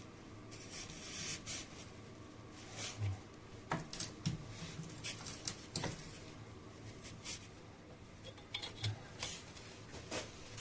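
Faint, scattered metallic clicks and a few soft knocks of a hand wrench being fitted to and worked on the hex adjuster plug of a car's steering rack.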